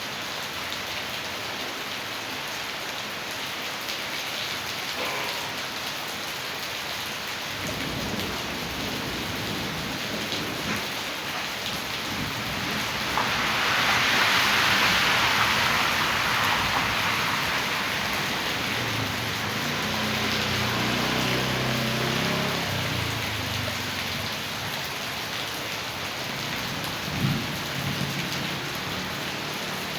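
Heavy rain falling steadily, with a low rumble from about a quarter of the way in and the downpour swelling louder around the middle.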